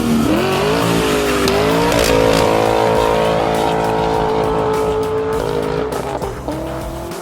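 2015 Lexus RC F's 5.0-litre V8 through a Kinney's Tunnel Ram performance exhaust, revving up over about two seconds, holding at high revs, then easing off near the end.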